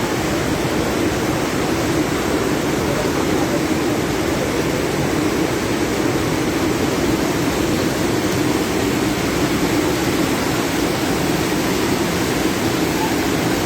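Swollen floodwater rushing steadily over the river crossing: a loud, unbroken roar of water.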